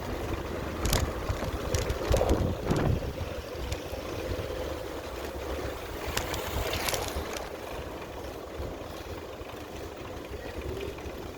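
Wind buffeting the microphone on a moving bicycle, over a steady low rumble from the ride, with a few sharp clicks and rattles.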